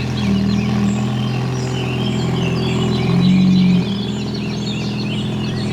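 A car engine running steadily, getting louder for about half a second around three seconds in, with birds chirping throughout.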